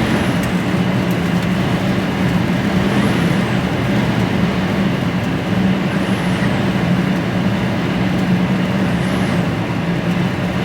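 HGV lorry engine pulling under load up a long climb, heard inside the cab as a steady low drone over constant road noise.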